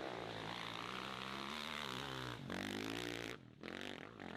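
Motorcycle engine revving hard, its pitch rising and falling, with a brief break about two and a half seconds in, then dropping away a little after three seconds.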